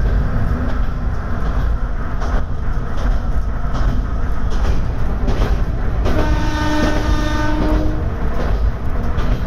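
Diesel railcar running along the track, its engine and wheel-on-rail noise steady and loud. About six seconds in, the railcar's horn sounds one held note for about two seconds.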